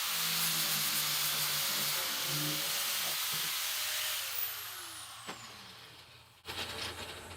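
An electric power tool running with a loud airy whir. About four seconds in it is switched off and winds down, its pitch falling as it slows.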